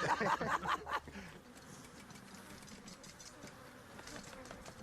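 Swarm of Africanized honeybees buzzing in a steady hum, with many faint ticks through it.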